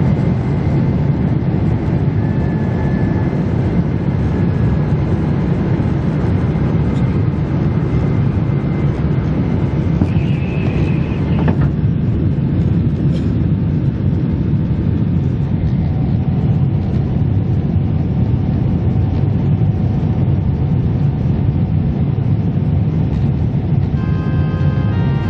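Steady engine and airflow noise inside the cabin of a Boeing 767-300 just after takeoff, a deep even rumble with no change in pitch. A brief high tone sounds about ten seconds in, and music starts near the end.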